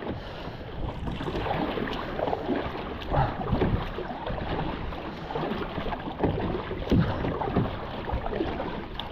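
Fast river water rushing and splashing around a kayak moving quickly through rapids, with irregular louder splashes.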